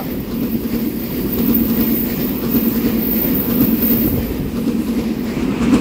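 A twelve-car Taiwan Railway EMU3000 electric multiple unit passing close by, its wheels on the rails making a steady low rumble.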